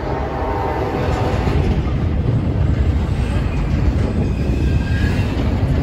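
Double-stack intermodal freight train passing close by: a steady low rumble of the cars rolling on the rails, growing slightly louder.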